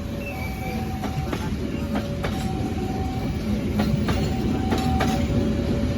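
A train passing at close range: a steady heavy rumble with sharp clacks as the wheels strike the rail joints, growing slightly louder. A steady two-note tone alternates about once a second behind it.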